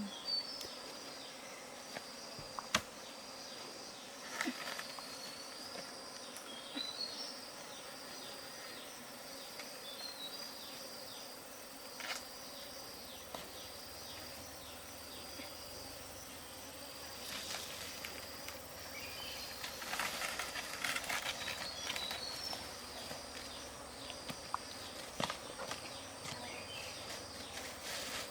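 Forest insects trilling: a high, even trill repeating in regular pulses, with a few short chirps over it. Leaves rustle and there are scattered knocks, busiest in the second half.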